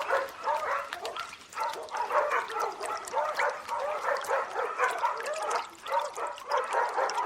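Dogs barking: many quick, short barks and yips overlapping one another.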